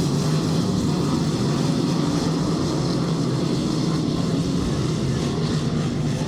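Dirt-track race car engines running steadily on the oval, a continuous loud drone of several cars at once.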